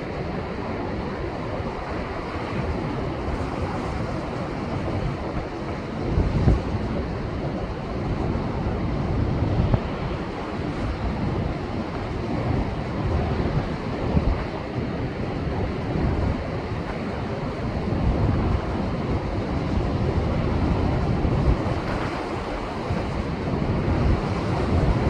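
Rough, storm-swollen Pacific surf breaking on rocks after a typhoon: a steady rush of churning water with several louder surges as bigger waves hit. Wind buffets the microphone.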